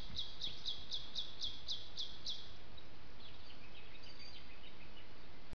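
A bird calling a fast run of short, high, falling notes, about four a second, that stops a little over two seconds in; faint scattered chirps follow.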